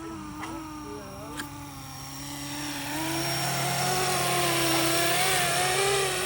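500-size RC scale helicopter in flight: a steady motor and rotor whine whose pitch wavers slightly, growing louder about halfway through.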